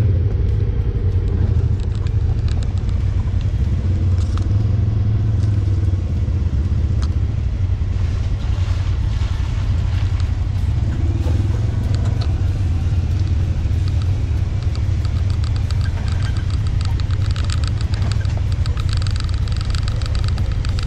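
Engine of a Honda Pioneer 1000 side-by-side UTV running steadily as it drives along a rough trail, a continuous low rumble with scattered knocks and clatter.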